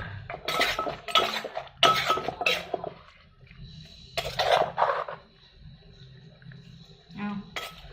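Pestle and spoon knocking and clinking against a mortar as seafood papaya salad is pounded and tossed, in irregular strikes with short quiet gaps.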